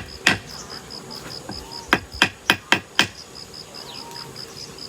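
Sharp knocks of a tool striking brick during bricklaying. One knock comes near the start, then a run of five quick taps about a quarter second apart.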